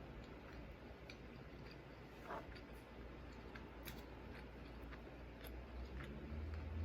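Faint mouth sounds of someone eating: scattered small wet clicks and smacks of chewing, over a low steady room hum.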